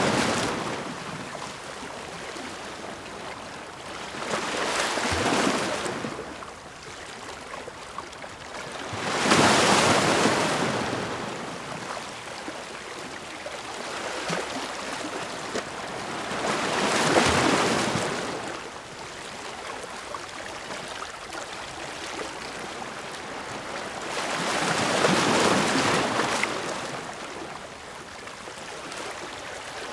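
Sea waves crashing against rocks. Four big surges build, break and wash back several seconds apart, with a steady hiss of surf between them.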